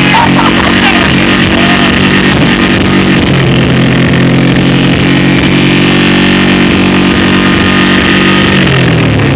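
Honda VTX 1800's big V-twin engine held at steady high revs, with a small shift in pitch about three seconds in, then the revs falling away near the end.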